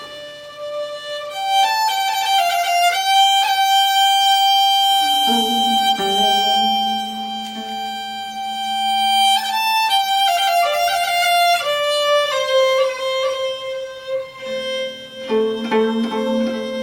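Slow music of long held notes on a bowed string instrument, sliding between pitches. A second, lower sustained line joins about five seconds in.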